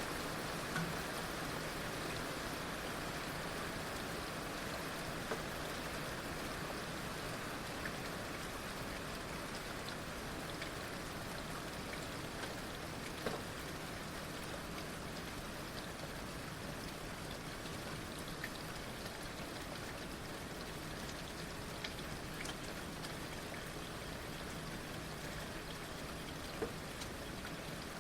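Heavy rain falling steadily, an even hiss with scattered louder drops ticking on nearby surfaces.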